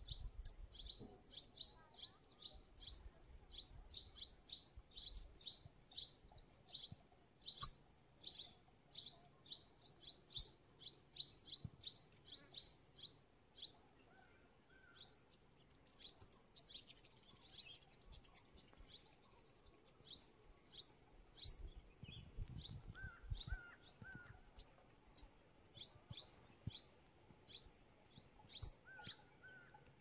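Sunbird chirping: a rapid run of short, high, thin chirps, about three or four a second, thinning out for a couple of seconds near the middle, with a few louder, sharper notes now and then.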